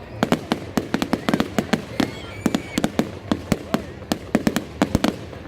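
Fireworks going off: a rapid, irregular run of sharp pops and bangs, several a second.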